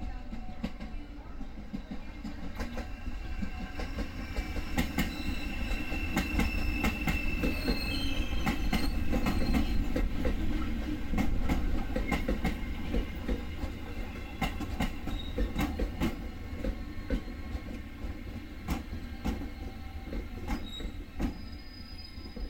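Passenger train rolling past at low speed, a steady rumble under rapid wheel clacks over rail joints and points, loudest about halfway through. Thin high squeals from the wheels come and go.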